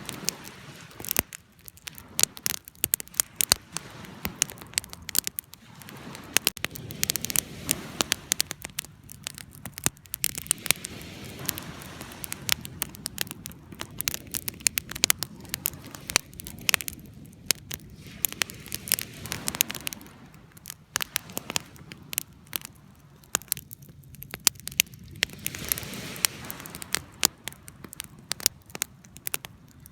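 Wood campfire burning, with frequent sharp crackles and pops over a low, steady rush of flame.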